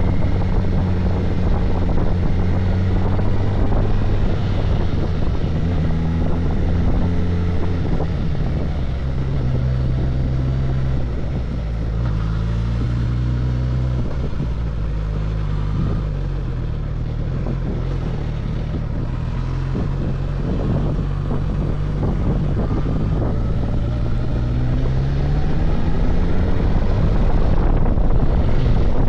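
Suzuki GSX-S1000GT's inline-four engine running under way on the road, its note shifting in steps with throttle and gear changes. The pitch drops away about three-quarters of the way through, then the engine grows louder near the end.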